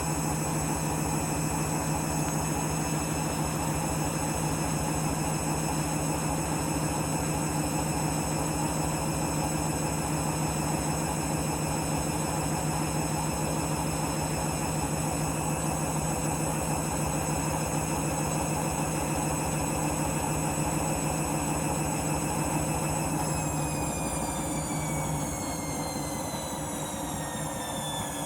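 Candy washing machine spinning a heavy load of towelling at steady speed, its motor giving a steady whine over the drum's hum. About 23 seconds in, the whine begins to fall in pitch as the spin slows down.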